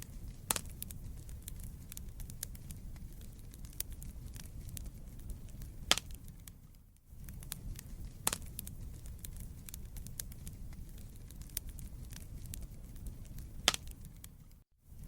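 Wood fire burning in a fireplace: a low steady rumble of flames under frequent small crackles and a few sharper pops. The sound dips out briefly about seven seconds in.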